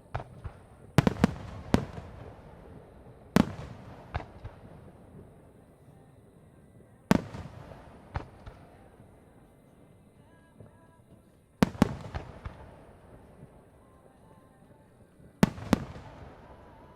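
Aerial fireworks shells bursting overhead: sharp booms every few seconds, often two or three close together, each followed by a rolling echo that fades out.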